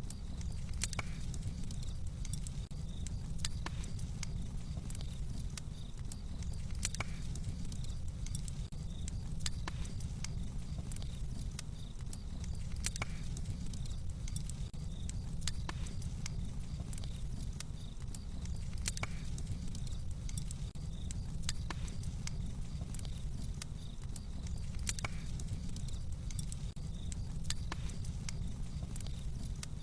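Wood fire crackling in a fireplace: irregular sharp pops and snaps over a low, steady background.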